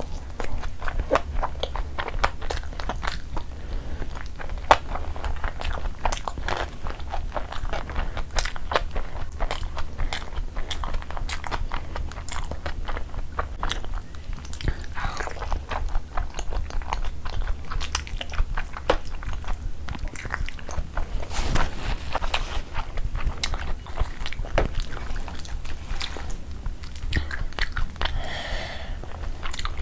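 Close-miked chewing and lip-smacking of a person eating saucy curry, egg and puri with her hands: wet mouth clicks and smacks come thick and irregular, over a steady low hum.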